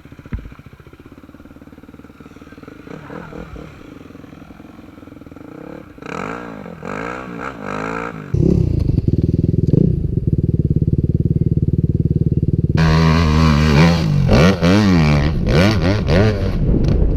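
Dirt bike engines running and revving: fainter at first, then loud and close from about eight seconds in, with the pitch rising and falling again and again in the last few seconds. The sound changes abruptly twice, as between separate riding clips.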